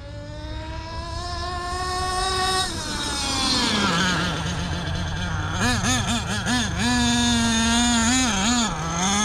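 Nitro engine (CXP .26) of a 1/8 scale HSP RC monster truck running at full throttle. Its pitch climbs steadily for the first two and a half seconds, drops over the next second or so, then rises and falls repeatedly to the end.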